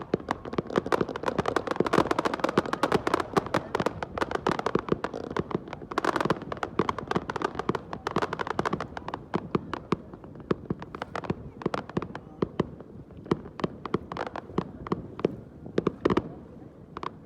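Fireworks going off: a dense, rapid barrage of sharp bangs and pops that thins out after about nine seconds to scattered single bangs.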